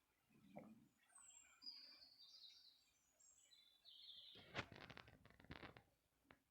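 Faint bird chirps and tweets, short high notes scattered through the first few seconds. About four and a half seconds in, a quick run of loud clicks or taps that lasts a little over a second.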